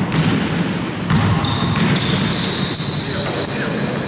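Basketball game on an indoor court: the ball bouncing as it is dribbled, with many short high squeaks of sneakers on the floor and players' voices over a busy hall background.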